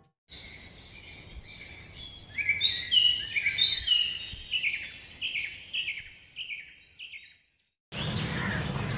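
Bird chirping: a run of short, falling chirps, about two a second, over a faint outdoor background. Near the end the chirps stop and a louder outdoor background with a low hum takes over.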